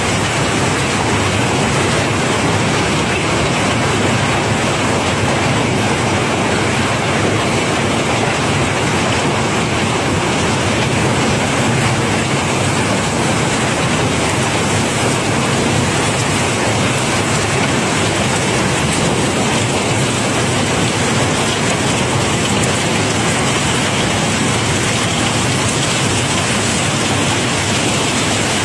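Cobblestones pouring in a steady stream, a dense, continuous clatter that does not let up.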